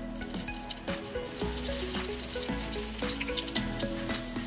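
Tortang talong, an egg-coated eggplant omelette, frying in hot oil in a wok: a steady sizzle full of small crackles and pops. Instrumental background music plays under it.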